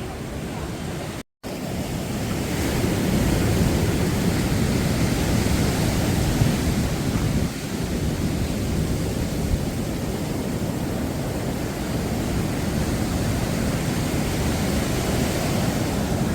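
Rough sea surf breaking and washing on the beach, a steady heavy rush, with wind buffeting the microphone. The sound cuts out briefly about a second in.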